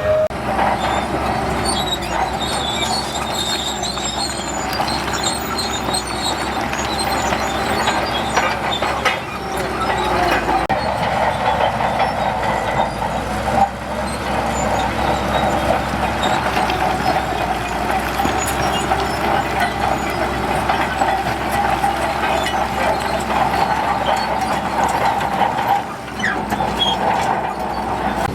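Crawler bulldozer working: diesel engine running under load with its steel tracks clanking and a steady metallic squeal.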